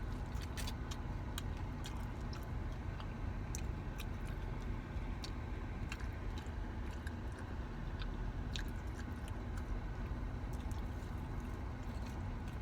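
Close-up chewing of a crunchy taco, with many small crisp crunches and clicks, over a steady low hum of the car's air conditioning running.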